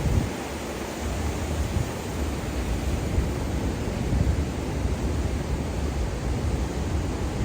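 Ocean waves washing on a beach, a steady hiss of surf with gusty low rumbles of wind buffeting the microphone.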